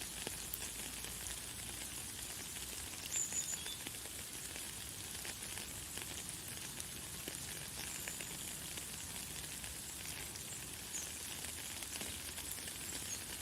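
Light, fine rain falling steadily, a dense patter of small drops, with a few brief high bird chirps about three, eight and eleven seconds in.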